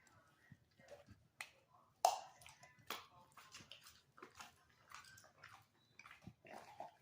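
A dog chewing and eating a chicken sandwich: irregular wet smacks and clicks of jaws and tongue, the loudest about two seconds in.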